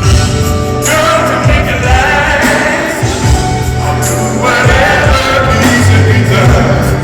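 Live concert music: a male R&B vocal group singing a ballad over the band's steady bass and keyboards.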